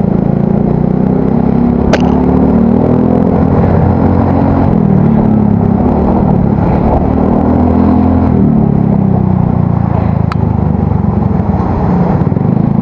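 Yamaha Mio Soul GT scooter's engine and aftermarket exhaust running steadily while riding, a deep note that rises and falls slightly with the throttle. Two short clicks are heard, one about two seconds in and one about ten seconds in.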